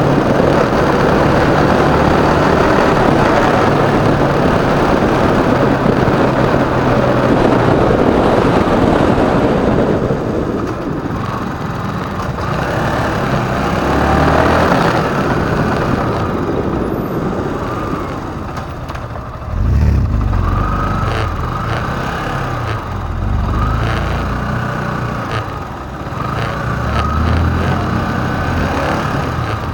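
Motorcycle engine and wind rushing past at speed for the first ten seconds or so, then quieter riding with the engine revving up in rising sweeps, with a sharp burst of throttle about twenty seconds in.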